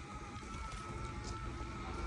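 A vehicle engine running steadily with a low rumble and a faint, steady high whine over it.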